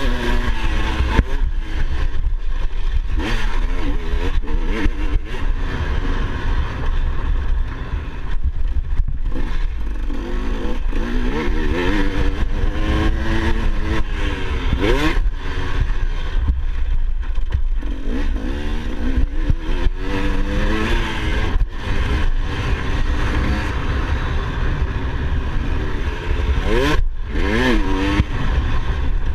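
Motocross dirt bike engine revving up and down over and over, the pitch climbing and dropping every few seconds, over a steady low rumble.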